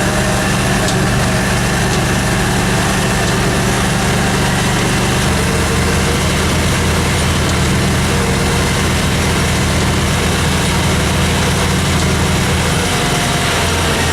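Small 3.3 hp Mariner outboard motor running steadily, its engine note shifting slightly about five seconds in and again near the end.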